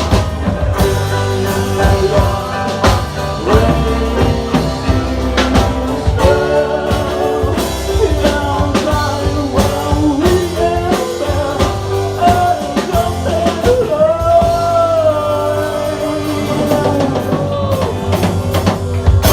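Live rock band playing: drum kit, a strong low bass line and gliding pitched lines, with a singing voice.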